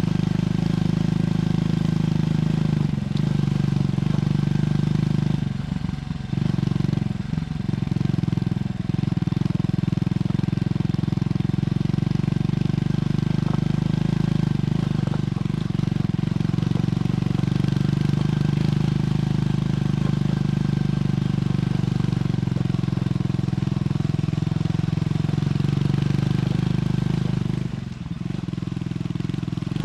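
Triumph Scrambler 400X's single-cylinder engine running through its stock exhaust while riding, a steady engine note with a few brief dips about six to nine seconds in and a drop in level near the end.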